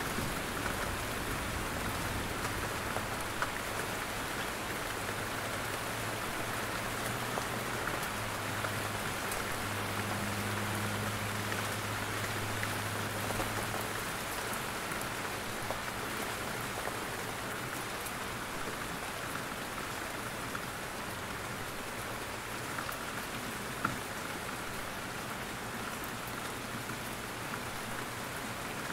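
Steady rain in a forest, with drops falling from the trees in many small scattered ticks and one sharper drop near the end. A low steady hum lies under the rain through the first half.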